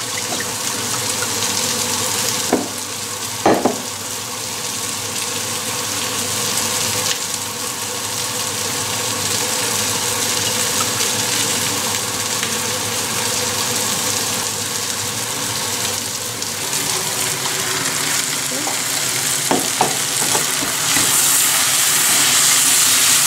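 Onion and carrot sizzling steadily as they fry in a pan, with two short knocks about three seconds in. Near the end the sizzling grows louder as raw chicken livers go into the hot pan and are stirred.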